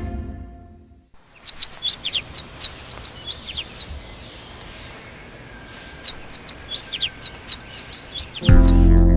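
Small birds chirping in quick clusters of short, high, downward notes over a steady hiss of forest ambience. Background music fades out at the start and cuts back in near the end.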